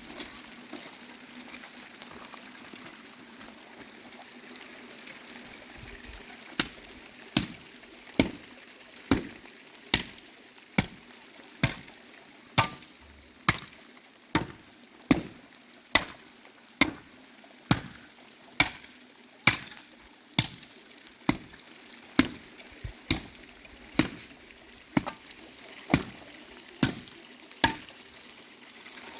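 Sharp, evenly spaced strikes, a little over one a second, like chopping or hammering, beginning about six seconds in over a steady hiss of rain and water.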